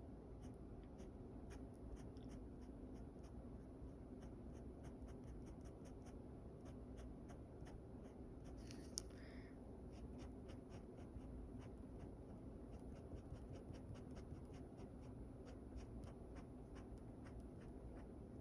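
Faint scratching of a drawing tool on paper, many short sketching strokes in quick succession, with one sharper click about nine seconds in.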